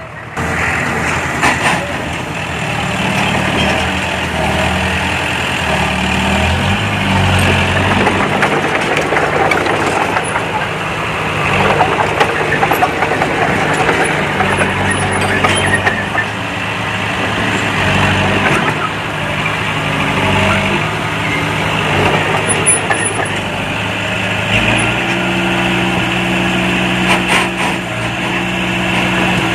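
Heavy diesel earthmoving machinery running under load, with clanking and rattling over it. The engine note shifts in pitch about a quarter of the way in and again near the end.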